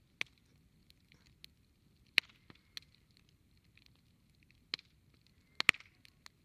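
Wood fire crackling: irregular sharp pops and snaps over a faint steady hiss, the loudest pops about two seconds in and near the end.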